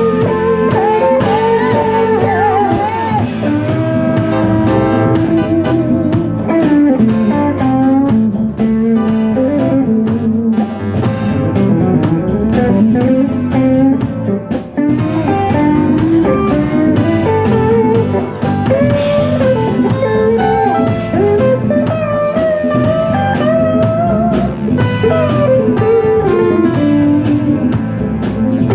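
Guitar-led blues music played by a band, with a melody line that bends and slides over a steady backing.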